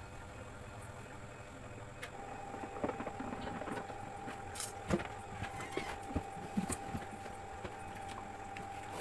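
Scattered light clicks and taps of hand tools as the bolts holding a washing machine's gearbox are fastened back in, over a steady hum that starts about two seconds in.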